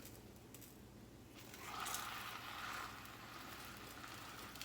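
Chicken quesadillas sizzling faintly in a hot pan: the hiss starts about a second and a half in, swells, then settles into a steady sizzle.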